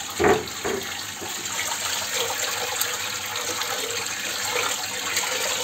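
Steady hiss of running or falling water, with a couple of short knocks in the first second.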